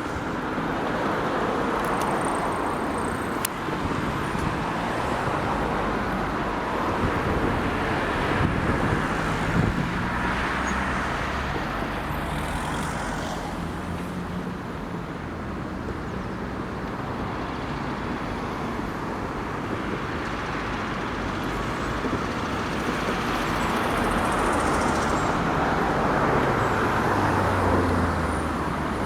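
Regional passenger train pulling out of a station: a steady rumble with a low engine note that shifts and steps in pitch as it gathers speed, swelling again near the end.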